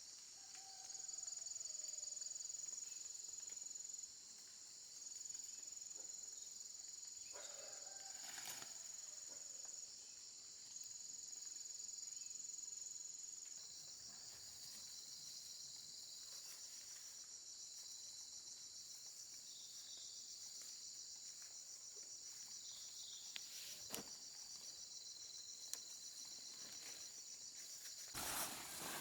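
Insects trilling steadily in a high-pitched, finely pulsing chorus, with a few brief knocks or rustles now and then.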